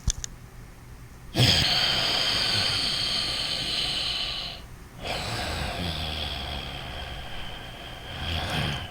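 Loud, deliberate breathing through the nose: two long breaths, each a hiss with a whistling edge. The first starts about a second and a half in and lasts about three seconds; the second follows after a brief pause and runs on to the end. A short click comes right at the start.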